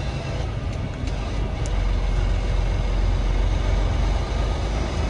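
Semi-truck diesel engine running steadily, a low rumble heard from inside the cab.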